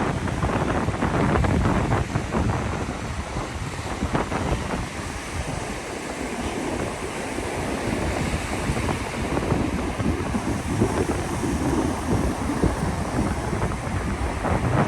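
Wind buffeting the microphone in uneven gusts over the steady wash of ocean surf on the beach.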